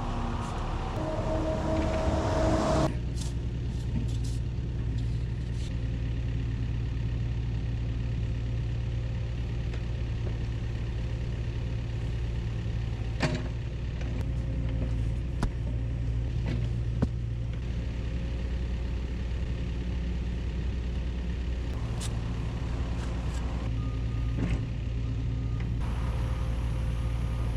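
Hydraulic excavator's diesel engine running steadily under work, louder for the first three seconds and then settling. A few sharp knocks come in the middle stretch.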